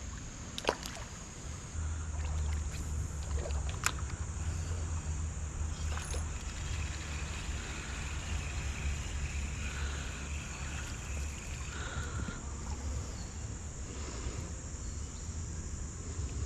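Steady low rush of creek water, with insects droning on one high steady note. A few sharp clicks stand out, one near the start and two more a few seconds later.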